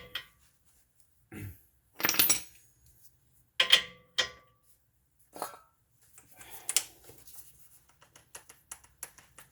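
Metal hand tools clanking and clinking against metal parts: a handful of separate sharp clanks, then a quick run of small clicks and rattles over the last few seconds.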